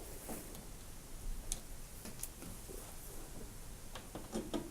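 Faint, scattered clicks and ticks of a Torx screwdriver undoing the screws that hold a tumble dryer's top panel, with a small cluster of clicks near the end.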